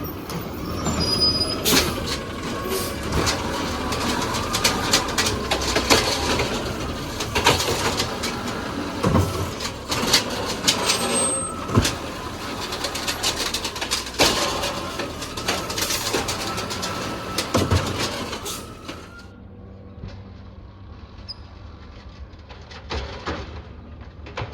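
Peterbilt 320 automated side-loader garbage truck at work: hydraulic whine from the arm with repeated clatters and bangs, dropping about nineteen seconds in to a quieter steady engine hum.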